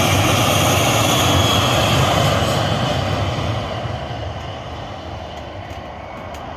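Jet airliner's engines loud as it passes close by, a heavy rumble with a hissing roar, then fading away over the second half.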